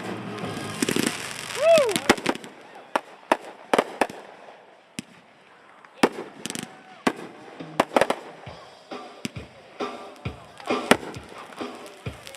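Aerial fireworks going off in a string of sharp bangs at irregular intervals, thick at first, thinning out about five seconds in, then picking up again. About a second and a half in, a whistling shell glides up and then down in pitch.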